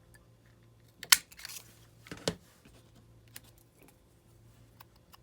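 A sharp click about a second in, a short papery rustle, and a knock a little after two seconds, then a few faint taps. These are small craft supplies and a scrap of paper being picked up and set down on a work table.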